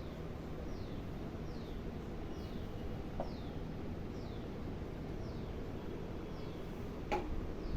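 A bird calling with faint, short, falling chirps, repeated about once a second over a low background hum, with a click about three seconds in and a sharper knock about seven seconds in.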